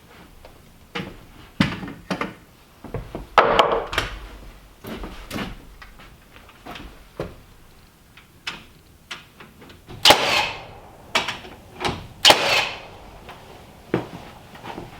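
Irregular knocks, bangs and clatter of carpentry work on a timber frame, with two louder sharp bangs about ten and twelve seconds in.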